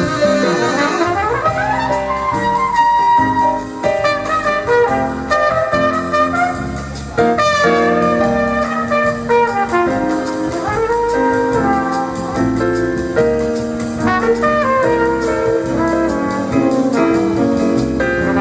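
Live jazz combo playing an instrumental passage: a wind instrument carries a moving melodic line over piano, bass and drums.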